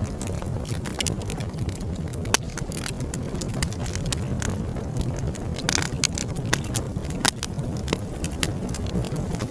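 Wood fire in a fireplace crackling and popping, with sharp pops at irregular moments over a low steady rumble of the flames.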